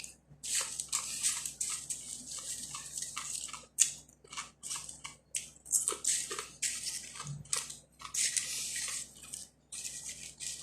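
Close-up chewing and crunching of crispy khubz (Arabic flatbread): a quick, irregular run of dry crackling crunches, bite after bite.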